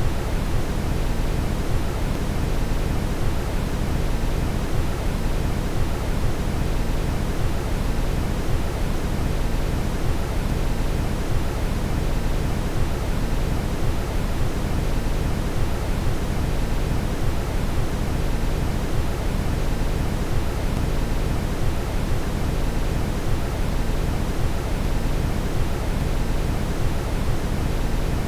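Steady brown noise: a deep, even rushing hiss, strongest in the lows, unchanging throughout.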